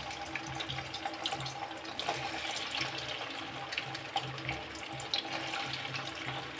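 Cubes of paneer frying in hot oil in a kadhai: a steady sizzle with many small crackles.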